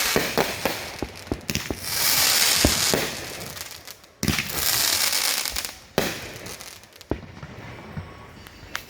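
Consumer fireworks cakes going off in rapid succession: sharp bangs and reports with loud swells of crackling, two long crackle bursts in the middle, thinning out near the end.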